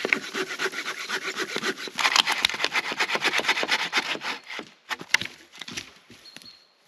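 Hand saw cutting wood in quick rasping strokes, which get louder about two seconds in and stop after about four and a half seconds. A few separate knocks follow.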